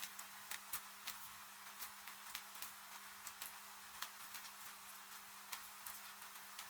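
Wood fire crackling: sharp pops at irregular intervals, several a second, over a soft, even hiss of rain. A faint steady low hum runs underneath.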